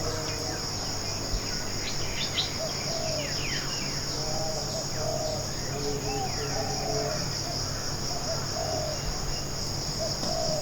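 Tropical forest ambience: a steady high-pitched insect drone, with birds calling over it in repeated short low whistled notes and a few quick falling chirps.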